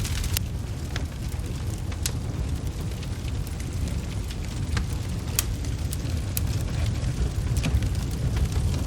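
Wood fire crackling: sparse, sharp pops scattered every second or so over a steady low rumble.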